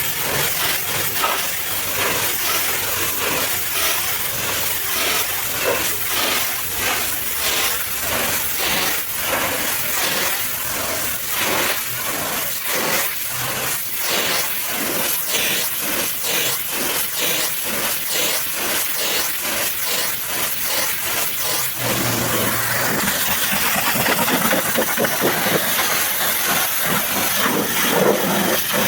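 High-pressure washer jet spraying a truck, a loud steady hiss that pulses quickly as the spray sweeps across the surface, changing in tone about three-quarters of the way through.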